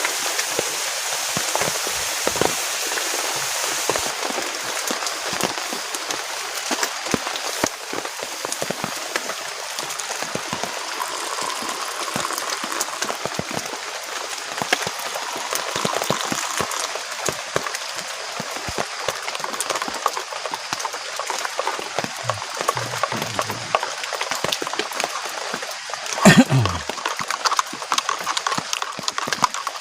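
Heavy rain falling steadily, with a constant patter of drops tapping close by. A single sharp knock near the end is the loudest sound.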